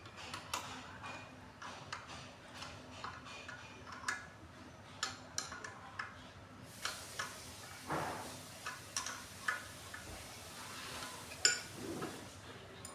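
Irregular metal clicks and clinks of a wrench working the bolts on a water pump's head. A faint hiss joins from about seven seconds in.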